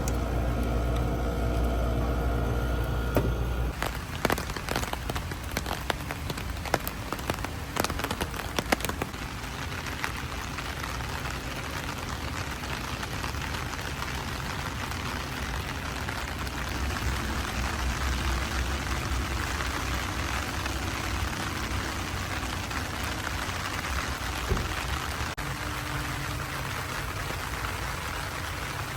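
Heavy rain falling steadily. For the first four seconds a vehicle engine hums underneath it, then cuts off. For several seconds after that, sharp drop-like taps stand out before the rain settles into an even hiss.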